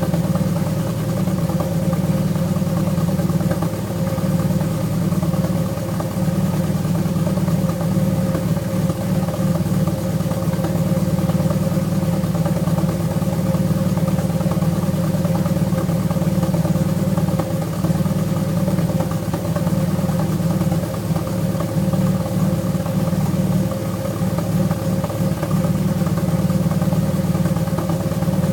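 Alfa Romeo V6 engine idling steadily while warming up after winter storage.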